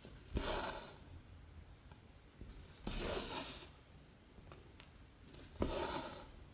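Cotton embroidery thread pulled through 14-count cross-stitch fabric, three rasping swishes a few seconds apart, each starting sharply and trailing off.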